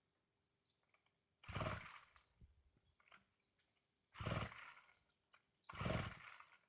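Three pulls on a chainsaw's recoil starter cord, each a short rasping burst of the engine turning over, with the engine not catching and running.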